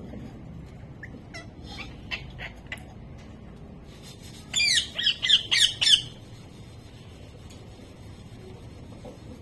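Pet parrot calling: a few soft short chirps, then about halfway through a loud quick run of about six shrill squawks, each sweeping down in pitch.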